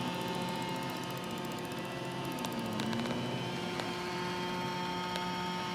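Roomba j7+ robot vacuum running: a steady whir and hum from its suction motor and brushes, with a few light clicks.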